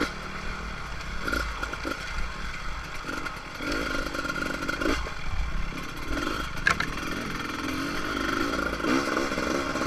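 Beta RR300 single-cylinder two-stroke dirt bike engine running on a trail ride, the revs rising and falling in repeated surges. A sharp knock sounds about two-thirds of the way in.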